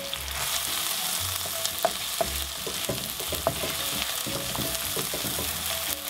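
Sliced red onions sizzling in hot oil in a wok, with a steady hiss, while a wooden spatula stirs them and clicks and scrapes against the pan.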